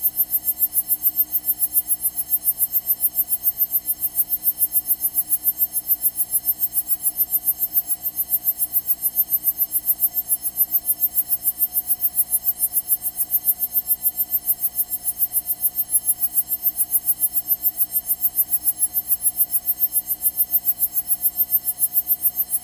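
Steady, fast, high-pitched electronic ticking and buzz, several pulses a second, on the Cessna 172's intercom audio feed: electrical interference rather than engine or propeller sound.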